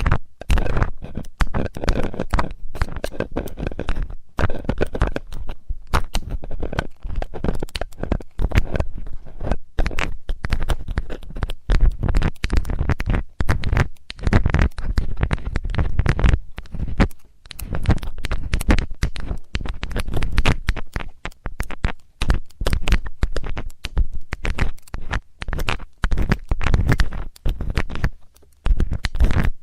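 Close-up ASMR ear cleaning: a metal ear-cleaning tool scratching and rubbing at a microphone's ear, with rapid irregular scratches, clicks and muffled low rumbling from contact with the mic.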